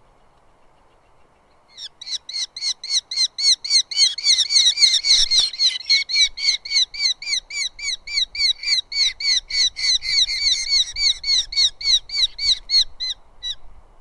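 Eurasian hobby giving a long, rapid series of sharp, repeated kew calls, about three to four a second, starting about two seconds in and stopping shortly before the end.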